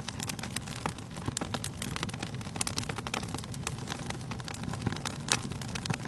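Wood fire burning in a fireplace, crackling with frequent sharp pops over a steady low rustle of flames; one louder pop about five seconds in.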